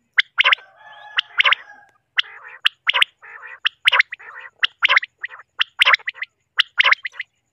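Common quail calling over and over: short, sharp, loud notes in quick groups of two or three. Lower, rasping, buzzy calls run between them through the first half.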